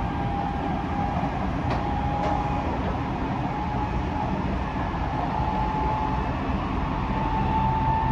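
Tokyo Metro 05 series electric train running, heard inside the passenger car: a steady rumble of wheels on rail with a thin motor whine that rises slowly in pitch as the train gathers speed, and a few faint clicks.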